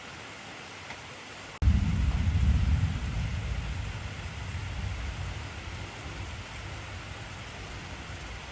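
Steady heavy rain hissing. About a second and a half in, a deep thunderclap breaks in suddenly and rumbles, then slowly fades over the next several seconds.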